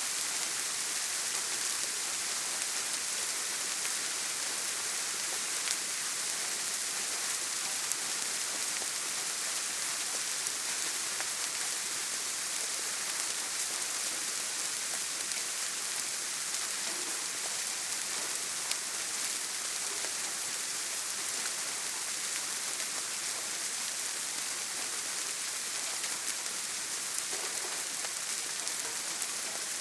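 Steady rain on a tin roof: a dense, even hiss with scattered sharper ticks of single drops.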